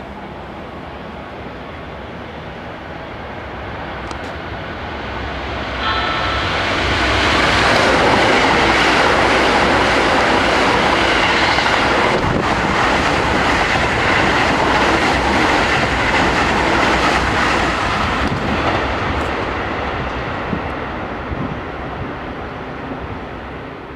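Keikyu new 1000 series electric train running past at the platform: its rolling noise and wheel clatter build up, stay loud for about ten seconds, then fade as it moves away. Brief high steady tones sound as it draws in.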